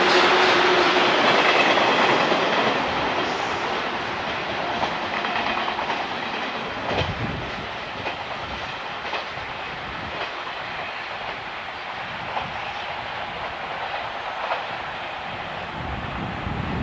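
A train running past on jointed track with a clickety-clack of wheels over rail joints, fading over the first several seconds as it moves away. A steady tone sounds briefly at the start.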